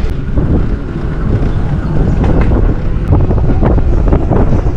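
Heavy wind buffeting the microphone: a loud, gusty rumble.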